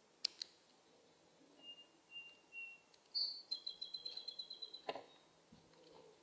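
Songbird calling: three faint short whistled notes, then a rapid trill on one pitch at about seven notes a second that lasts nearly two seconds. Sharp clicks come near the start and as the trill ends.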